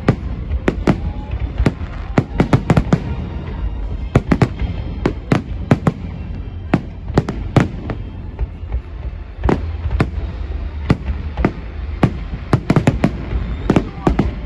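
Aerial firework shells bursting in rapid, irregular volleys of sharp bangs, several a second at the busiest, with a thinner stretch in the middle, over a steady low rumble.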